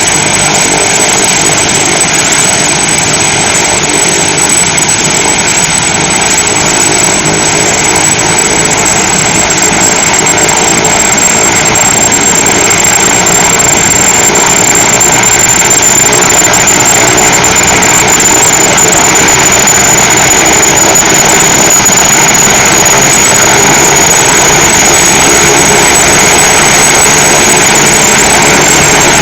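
Helicopter's turbine engines and rotor running loud and steady, with a high turbine whine over the rotor noise.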